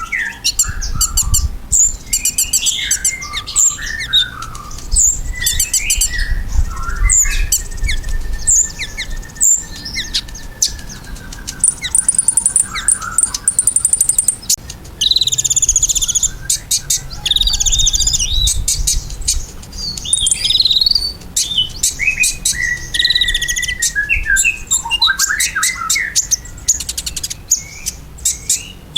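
Sunbird ('kolibri ninja') singing in full, fast song: dense high chirps and rapid rattling trills with short whistled, gliding notes in between, almost without pause.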